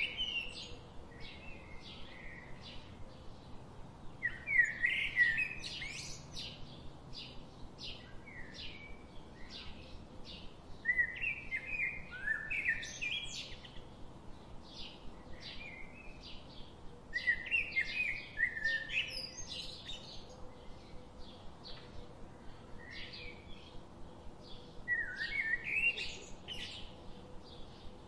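Birds singing: a louder burst of twittering song every six or seven seconds, with quick short chirps repeating in between.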